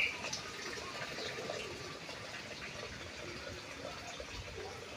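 Water flowing in a steady rush.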